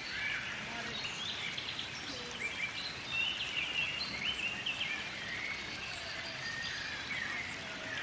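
Several songbirds chirping and singing in short, quick phrases, over a steady outdoor hiss.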